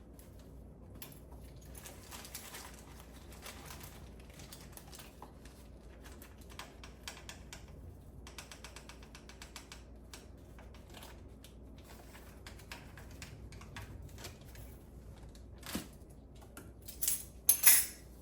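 Light, irregular clicking and scraping of a measuring spoon against containers as dry ingredients are measured out, with a few louder sharp knocks near the end.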